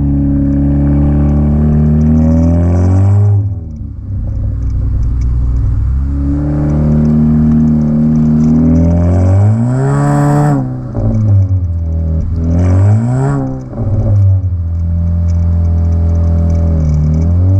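Exhaust note of a 2016 Honda Civic LX's 2.0-litre K20C2 four-cylinder through a Flowmaster DBX pipe fitted in place of the resonator: a steady, deep drone, dropping briefly a few seconds in, then two quick rises and falls in revs about a second long each, settling back to the steady drone.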